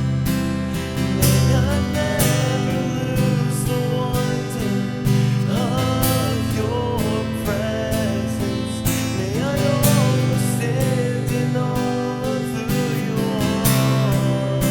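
Acoustic guitar strummed in steady chords, with a higher melody line gliding and wavering above it.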